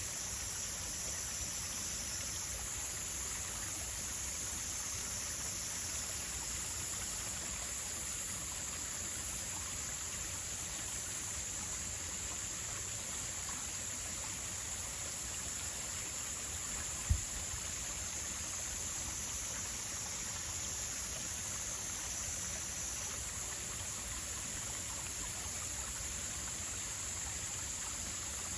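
Steady outdoor nature ambience: an even, unbroken hiss with a steady high-pitched whine held over it, and one short low thump about 17 seconds in.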